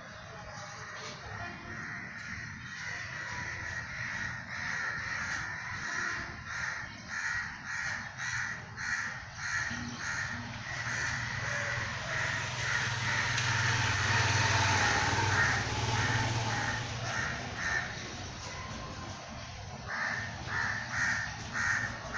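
A bird calling over and over in short repeated calls, about two a second, pausing and starting again near the end. In the middle a louder rushing noise with a low hum swells up and fades away.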